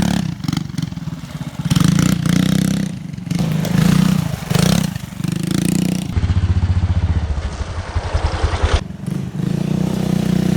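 Full-suspension minibike's engine revving up and easing off again and again as it is ridden hard around a dirt track.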